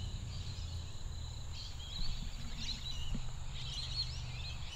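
A bird chirping in short, twittering phrases, starting about a second and a half in and coming again a few times, over a steady low outdoor rumble.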